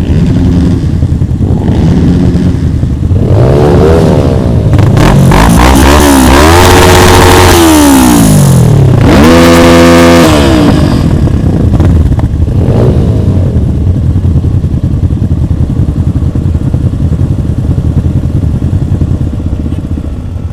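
Motorcycle engine running, revved and accelerated hard several times, its pitch climbing and dropping between about three and eleven seconds in, then settling back to a steadier drone.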